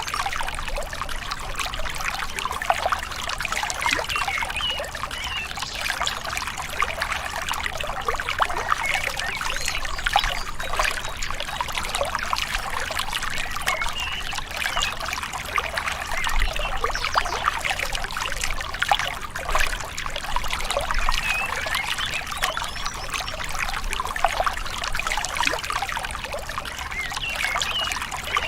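Small river flowing gently, its water trickling and babbling steadily without a break.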